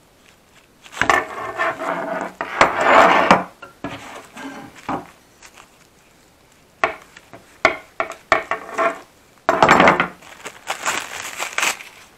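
Irregular scraping and rubbing on wooden chair parts, with sharp knocks and clicks of wood and tools being handled, in two longer noisy spells.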